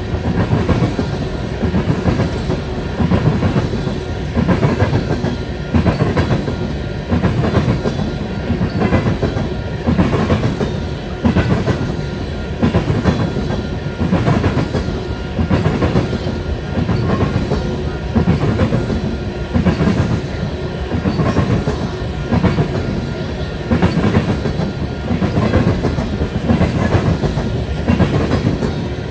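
Tank cars of an oil train rolling past, their wheels clicking over the rail joints in a steady clickety-clack, a cluster of clicks about every second over a continuous rumble.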